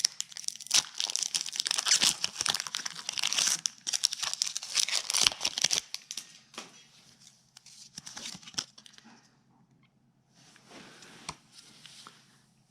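Foil wrapper of a Pokémon trading card booster pack being torn open and crinkled: dense crackling for about six seconds, then thinning to a few light rustles and clicks.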